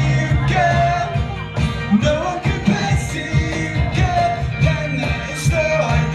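Live band performing a pop-rock song: a singer's voice over a steady bass line and a regular drum beat.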